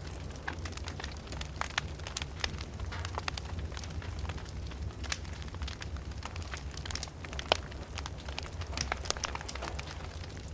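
Open fireplace fire crackling, with irregular sharp snaps and pops over a steady low rumble. One louder snap comes about seven and a half seconds in.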